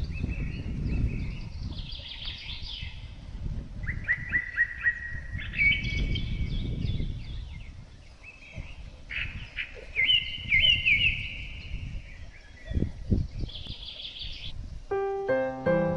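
Wild animals calling in repeated short chirping phrases, each a quick run of pulses, over a low rumble. Piano music comes in near the end.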